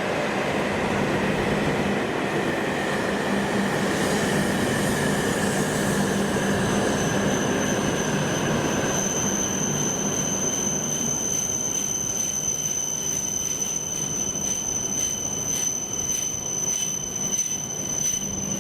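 A Shinkansen train pulling into the station and braking toward a stop, its motor whine falling in pitch over the first several seconds over the rumble of the train. A thin, steady high-pitched tone sets in about halfway through as the train noise eases.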